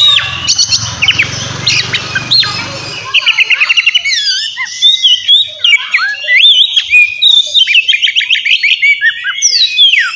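Oriental magpie-robin (kacer) singing loudly: a fast run of varied whistled notes that slide up and down, broken by quick repeated trills. A low hum sits under the first three seconds.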